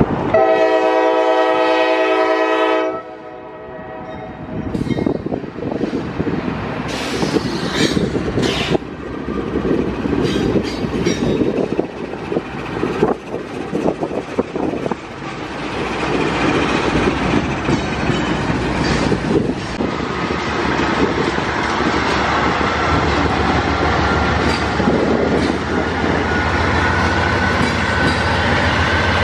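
A train horn sounds for about three seconds and cuts off. Autorack freight cars then roll past with wheel clatter and rail noise. Over the last few seconds a mid-train Norfolk Southern diesel locomotive approaches, its engine hum growing under the rolling noise.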